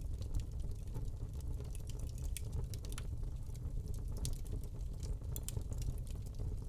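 Wood log fire burning in a fireplace: a steady low rumble of flames with irregular sharp crackles and pops scattered throughout.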